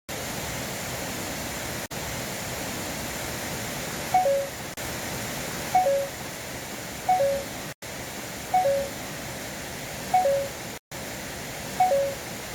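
A repeated two-note call, a short higher note followed by a lower one, sounding about every one and a half seconds from about four seconds in, over a steady rushing noise that briefly cuts out a few times.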